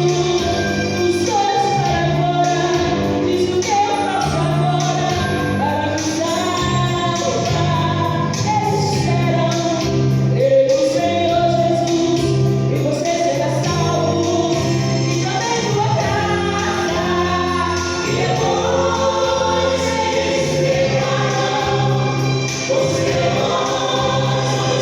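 Gospel song sung by a choir-style vocal group over band accompaniment with a steady bass line.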